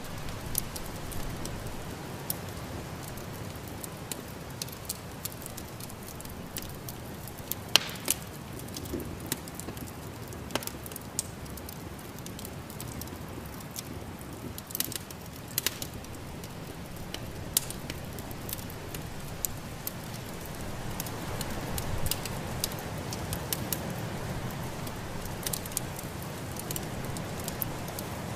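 Wood fire in a fireplace crackling, with irregular sharp pops and snaps over a steady low rushing background.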